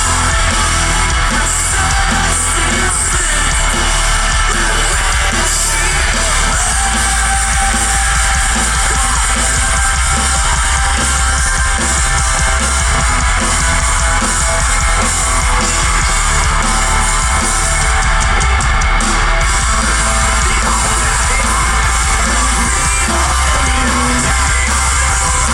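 Metalcore band playing loud and without a break: distorted electric guitars, drums and bass, with yelled vocals over the top.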